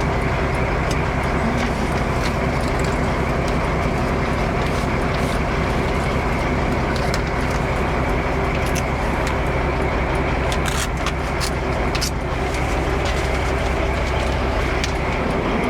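A heavy four-axle truck running steadily under way, engine drone and road noise. There are a few short clicks or rattles a little past ten seconds in.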